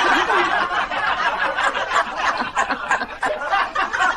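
Crowd laughter, dense and choppy, following a punchline and cut off abruptly at the end.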